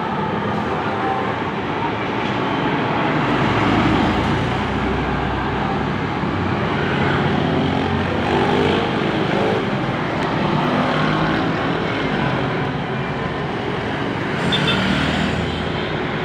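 Steady road traffic noise, with vehicles passing and their engines swelling and fading.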